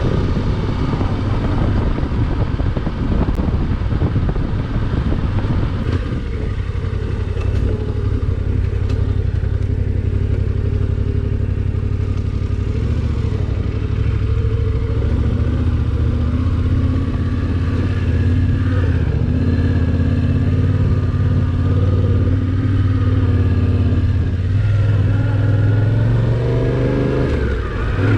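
Motorcycle engine running steadily under way, its pitch rising and falling with the throttle, with a brief drop in revs near the end.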